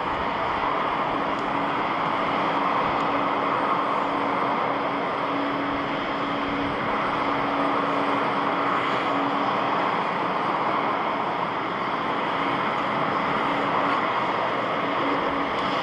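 Jet airliner engines running steadily: an even hiss with a faint low hum underneath.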